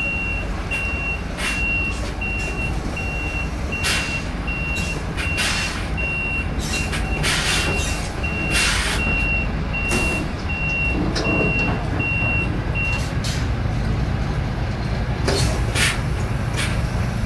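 Lorry reversing alarm beeping at a steady regular pace over a running diesel engine, with a few short hisses of air; the beeping stops about 13 seconds in.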